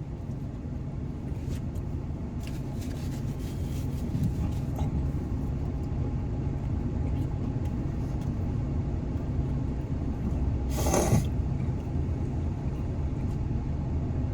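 Steady low rumble of a motor vehicle engine, with a brief hiss about eleven seconds in.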